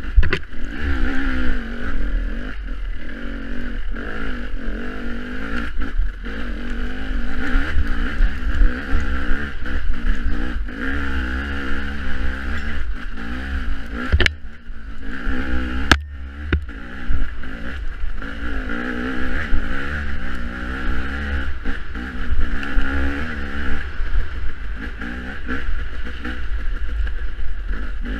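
Off-road dirt bike engine running through the race, its pitch rising and falling constantly with the throttle, over a steady low rumble. Two sharp clicks about 14 and 16 seconds in.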